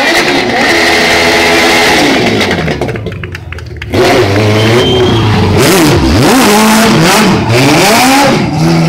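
A hot-rod car's engine revving hard in repeated rises and falls as it slides sideways on the tarmac, easing off about three seconds in and revving again about a second later.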